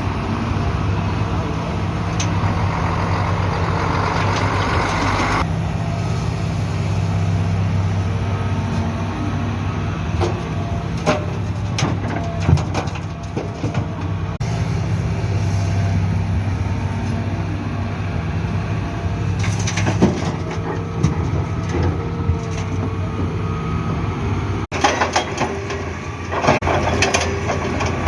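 Hitachi excavator's diesel engine running steadily while loading trucks, with scattered clanks and knocks from the digging and dumping, thickest near the end. A hissing rush sounds over the engine for the first five seconds or so.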